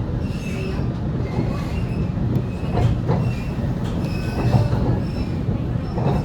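Waratah A set electric train running along the track, heard from on board: a steady low rumble with a few sharp wheel knocks over rail joints and faint wheel squeal.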